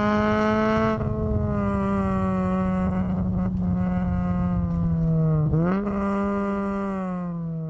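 Honda Civic EG6's four-cylinder VTEC engine running hard at high revs, its pitch holding high and drifting slowly down. About five and a half seconds in the note dips briefly and recovers, as at a gear change, then it fades near the end.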